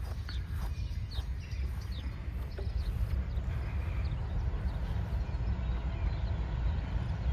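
Outdoor ambience: a steady low rumble with a few short bird chirps in the first few seconds.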